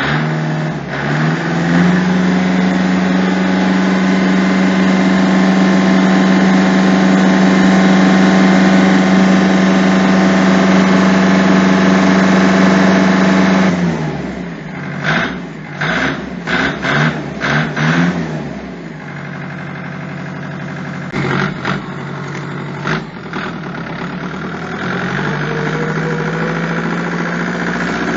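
Kubota tractor's diesel engine, running on fuel treated with an additive, revved up and held at high speed for about twelve seconds, then dropped back with a series of short throttle blips. It runs lower for a while with a few more blips, and revs up again near the end.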